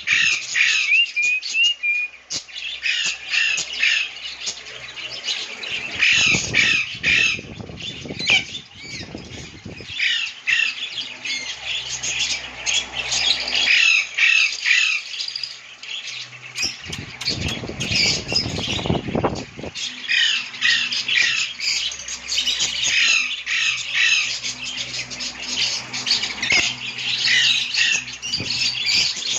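Lovebirds squawking and chattering: quick runs of short, high, sharp calls, coming in clusters with brief pauses between them.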